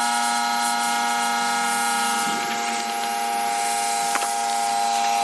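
Heavy water spray hitting the dry bags, a steady hiss with a steady whine running through it.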